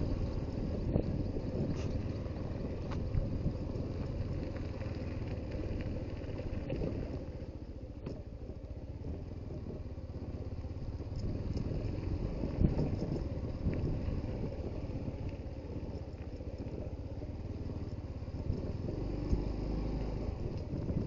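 Suzuki GD110HU motorcycle's small single-cylinder engine running as the bike is ridden, a steady rumble with a few short knocks along the way.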